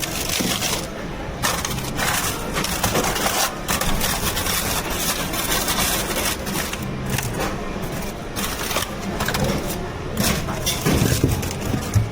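Continuous clatter, clinking and scraping of bubble tea preparation: cups, ice and utensils handled at a busy counter, with voices in the background.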